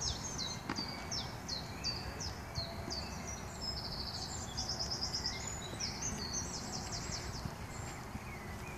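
Songbirds singing: high, downward-sliding chirps repeated about twice a second, broken by several fast trills, over a steady low background noise.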